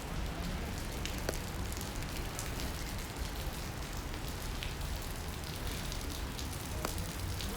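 Steady rain falling on a city street, an even hiss with a low rumble underneath and a couple of sharp ticks.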